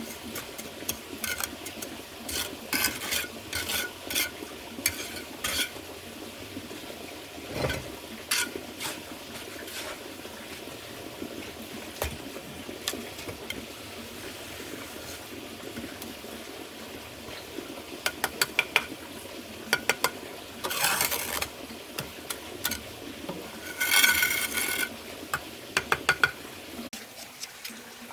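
Irregular clinks and scrapes of a hard tool against a hard surface over a steady hiss, with two longer, louder scrapes in the second half.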